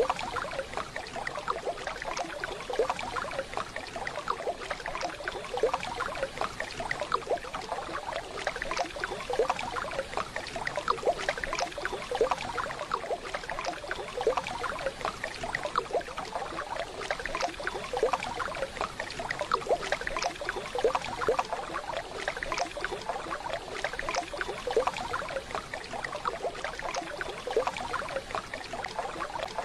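Waterfall water splashing and babbling steadily, a continuous rush made of many small splashes.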